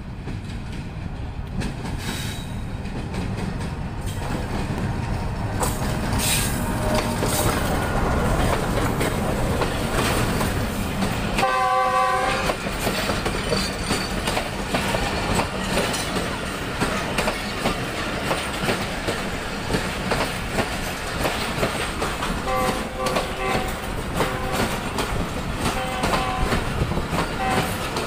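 Passenger train hauled by a GEU40 diesel-electric locomotive approaching and running past, growing louder over the first several seconds, then coaches rattling and clattering over the rail joints. The locomotive's horn sounds once for about a second midway, and short high tones recur several times near the end.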